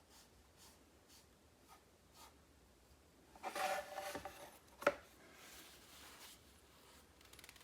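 Light scratching strokes of a watercolour brush on paper, then a louder rubbing stretch about three and a half seconds in and a single sharp tap about a second later.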